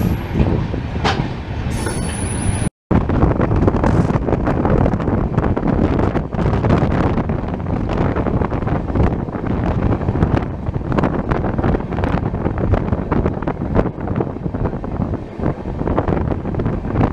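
Passenger train running, heard from an open coach door: the rumble of wheels on rails with repeated clicks from rail joints, and a high wheel squeal about two seconds in. The sound drops out for a moment just before three seconds in, then the running noise goes on steadily.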